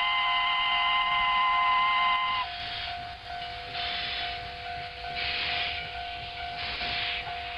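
Steam locomotive whistle blowing a steady chord for about two and a half seconds, then a single lower tone carries on under slow, hissing steam puffs about every second and a half.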